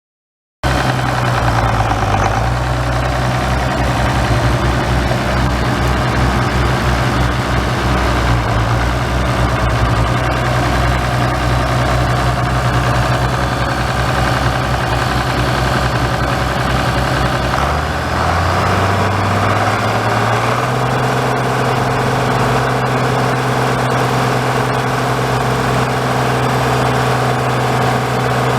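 1965 Farmall 806 tractor's six-cylinder diesel engine running steadily at idle. Its speed dips briefly about 18 seconds in, then picks back up and holds steady.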